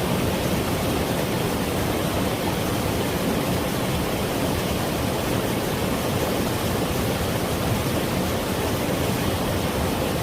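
Mountain valley stream flowing, a steady rush of water with no break or change.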